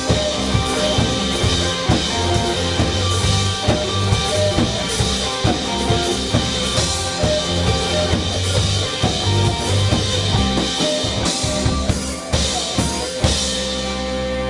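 Live rock band playing: a drum kit pounding steadily under guitars and bass. Near the end, one last big hit, after which a chord rings on.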